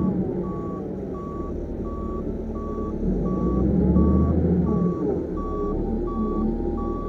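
Reversing alarm on a heavy construction machine beeping steadily, a single tone about three beeps every two seconds, over the diesel engine running under load. The engine revs up about three seconds in and drops back about two seconds later.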